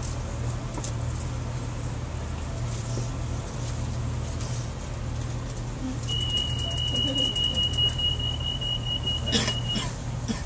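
Inside a crowded diesel commuter train: the steady low hum of the train's engine. About six seconds in, a steady high-pitched electronic beep sounds for nearly four seconds, with a sharp knock shortly before it stops.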